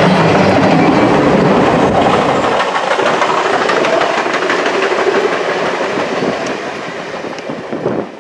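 Passenger coaches of a train rolling past on the rails; the deep rumble drops away a few seconds in and the sound fades steadily as the last coach goes by and recedes.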